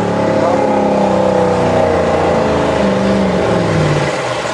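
Pulling truck's engine running hard with its pitch slowly falling, then easing off near the end.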